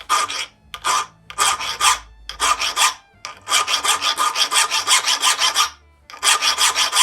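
Hand file rasping back and forth on a small metal bearing retainer, smoothing off a sharp edge. Several short runs of strokes with brief pauses, the longest about two seconds at roughly five strokes a second.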